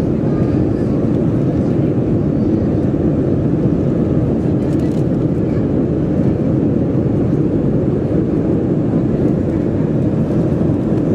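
Steady cabin roar of a Boeing 737-400 in its climb, its CFM56 turbofans and the airflow heard from an economy seat. A deep, even rumble with no change in pitch or level.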